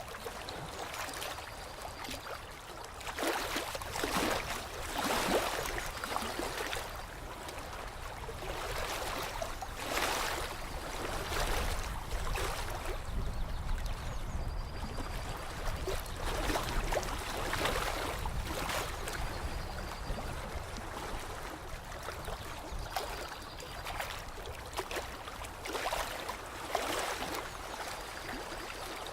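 Running water splashing and gurgling in uneven swells, with a faint short high note repeating about every four seconds.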